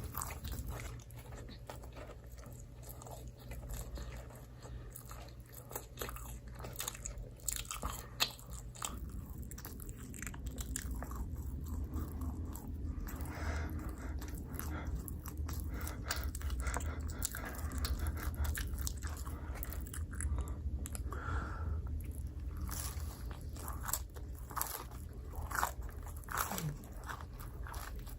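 Close-miked eating: a person biting and chewing pizza, with many short crunchy crackles from the mouth.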